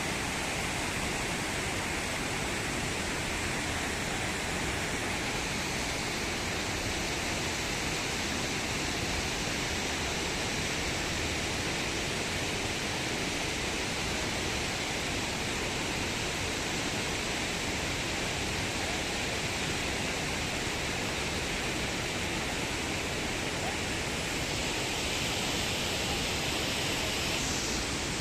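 Steady rushing of flowing water, an even hiss with no breaks, growing a little louder and brighter near the end.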